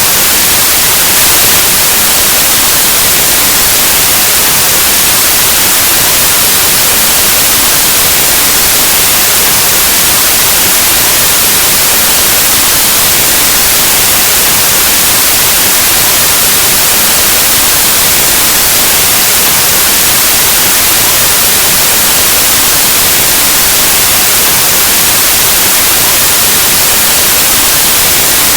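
Steady white noise, a loud even hiss like analog TV or radio static, unchanging throughout.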